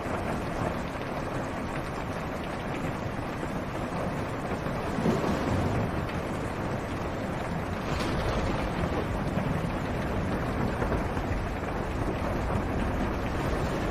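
Steady rain falling on a car's roof and windshield, heard from inside the car, with low thunder rumbling in from about five seconds in.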